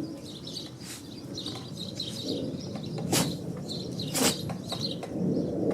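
Soft, scattered bird chirps, with two short sharp sneezes about three and four seconds in.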